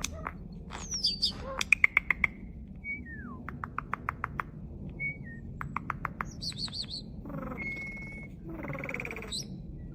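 Starling singing a varied medley: clear whistles, a couple of falling glides, rapid trains of clicks, a quick warble, and a rough buzzy phrase near the end.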